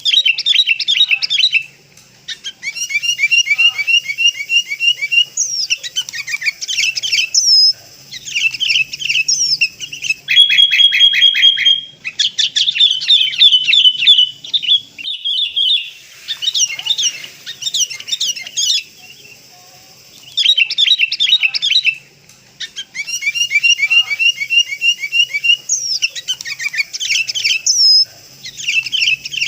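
Sooty-headed bulbul (kutilang) lure recording: rapid, busy phrases of high chirps and trills broken by short pauses. The same run of phrases comes round again about twenty seconds on, as a looped playback.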